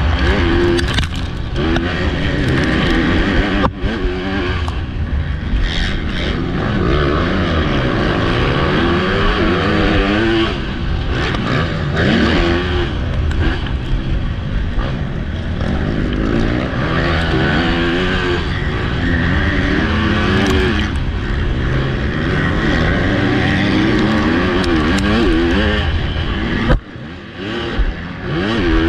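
MX2 motocross bike's engine racing, its pitch rising and falling over and over as the throttle is worked through gear changes, with a steady rush of wind on the rider's onboard camera. Near the end the engine note drops out for about a second, then picks up again.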